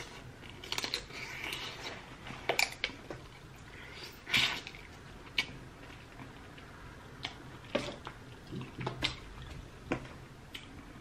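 Close-up mouth sounds of eating snow crab legs: wet chewing and smacking, broken by scattered sharp clicks, the loudest about four seconds in.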